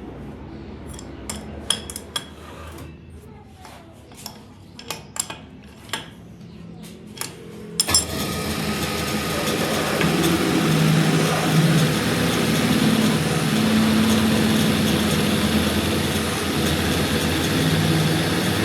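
A dozen or so sharp metal clinks and taps from hand tools on metal. About eight seconds in, a continuous machine noise starts abruptly and keeps running.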